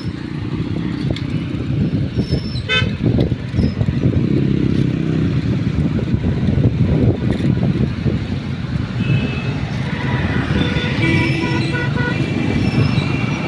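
Motorbikes of a TVS superbike road show running together in a dense engine rumble, with horns honking. A brief honk comes about three seconds in, and several horns sound at once near the end.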